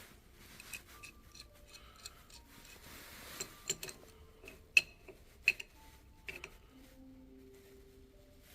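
Scattered sharp metallic clicks and clinks of tools and parts being handled, several ringing briefly, the two loudest about two-thirds of a second apart near the middle.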